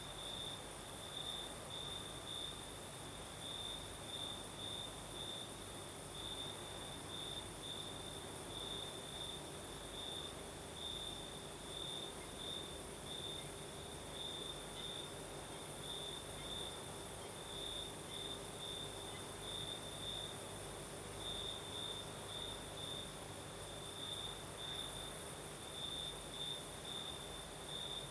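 Crickets chirping at night: a high, even tone broken into quick short pulses, several a second, keeping on steadily, over a steady hiss of higher-pitched insects.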